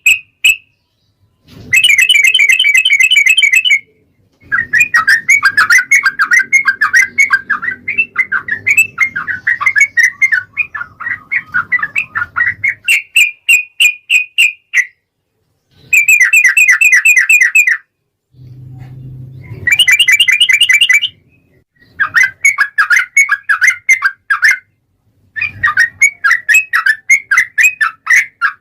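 Yellow-vented bulbul (trucukan) singing loud, rapid, bubbling chattering phrases, each a few seconds long with brief pauses between, one of them running on for about ten seconds.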